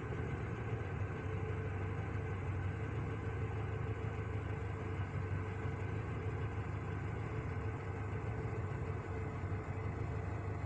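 GAZ-3110 Volga's ZMZ-402 four-cylinder petrol engine, fed by a K-151 carburettor, idling steadily.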